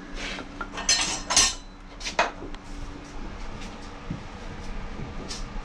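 Metal tools and parts being handled: several sharp clinks and knocks in the first two seconds, then lighter ticks and taps.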